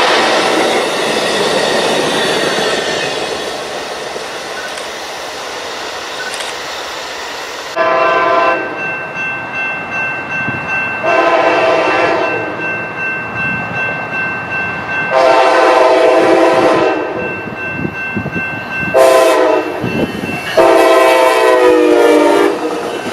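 A Siemens Charger locomotive's Nathan K5LA air horn sounding five blasts, the fourth short and the others longer. Before the horn, for the first several seconds, a moving train gives a steady rushing noise.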